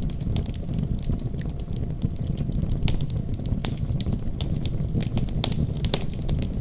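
Fire burning in a fireplace, crackling with frequent sharp, irregular pops over a steady low rumble of the flames.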